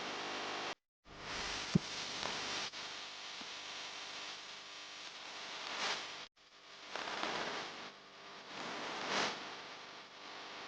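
Steady hissing background noise with slow swells, broken by a sharp click just under two seconds in. The sound cuts out abruptly twice.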